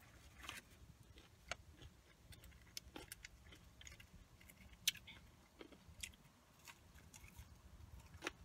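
Quiet close-up chewing of a fried chicken strip dipped in ranch: soft mouth sounds and small clicks, with one sharper click about five seconds in.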